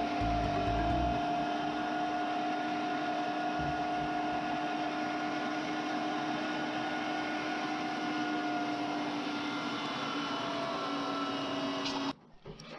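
Gander Mountain 1/4-horsepower electric meat grinder running steadily under load as it grinds deer meat, with an even motor hum. It shuts off suddenly near the end.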